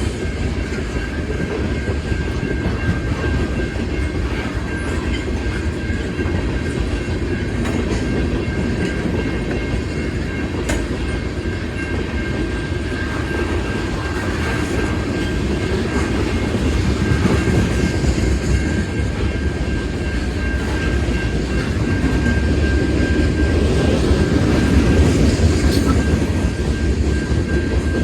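CN freight train cars rolling through a grade crossing: a steady rumble with wheels clicking over the rail joints. A thin, steady high tone runs through it, and the sound grows a little louder near the end.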